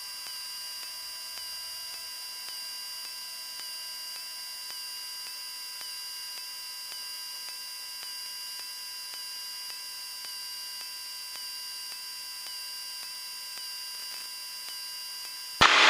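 Steady electrical hum made of several fixed high tones in the aircraft's radio and intercom audio between transmissions, with no engine sound coming through. A loud rush of hiss starts right at the end.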